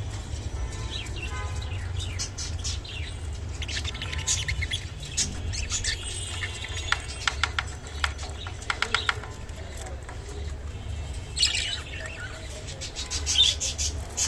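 Budgerigar chirping in quick clusters of short, high notes, over a steady low hum.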